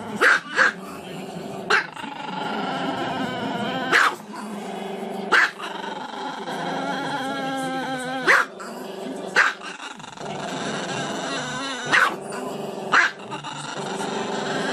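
Small long-haired black-and-tan dog with its head thrown back, giving about nine sharp high barks spaced a second or two apart, with a drawn-out wavering howl in between.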